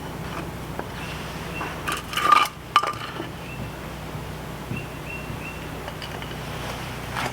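Metal hand tool clinking and scraping against an outboard lower unit as a drain or vent screw is worked loose: a quick cluster of sharp clinks about two to three seconds in, over a steady low hum.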